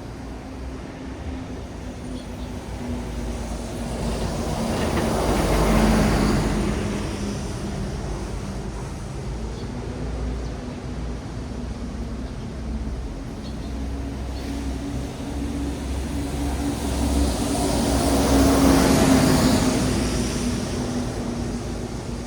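Traffic on a wet city road: vehicles pass with tyres hissing on the wet asphalt. The hiss swells twice, once about six seconds in and again late on, over a steady low engine hum.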